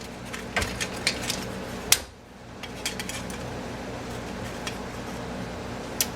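Scattered metallic clinks and clicks of hand tools and metal parts being handled, the sharpest a little under two seconds in and another near the end, over a steady low hum.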